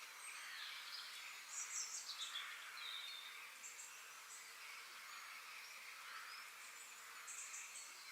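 Birds chirping and trilling over a steady, faint high hiss of background ambience. The loudest is a quick burst of high chirps about two seconds in, ending in a falling note, with shorter chirp groups around three and a half seconds in and near the end.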